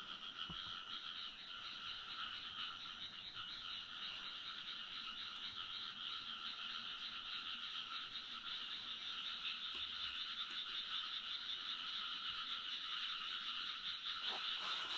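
A dense chorus of many frogs croaking at once, a continuous overlapping din from a large number of frogs that cuts in suddenly.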